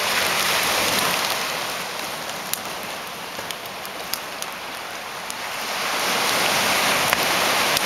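Ocean surf washing onto the beach, a steady rush that swells, eases off in the middle and swells again near the end, with scattered sharp crackles over it.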